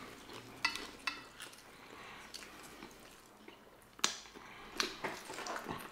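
Soft, close-miked chewing and wet mouth smacks from people eating saucy chili cheese sausage dogs, with a handful of short sharp clicks; the loudest comes about four seconds in.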